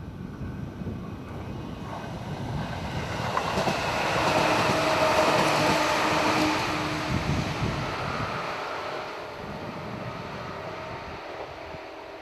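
JR 211 series electric train passing by: its running noise grows louder, peaks about halfway through and fades away again. Low wind rumble on the microphone throughout.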